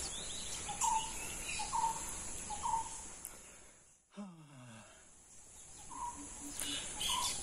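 Outdoor rural ambience: a bird gives a short rising call about once a second, three times in the first few seconds and twice more near the end, over a steady high hiss.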